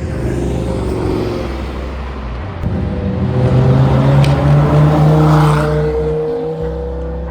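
Car engines running, with one growing louder about a third of the way in and its pitch climbing steadily as it revs up or accelerates.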